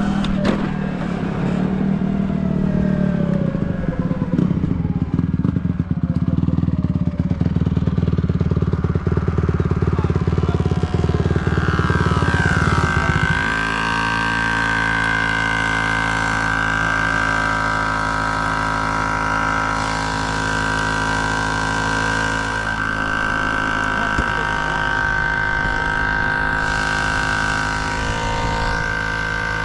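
Dirt bike engine running under way. About halfway through the sound changes abruptly from a rough, low, pulsing run to a steady, held pitch with a high whine on top.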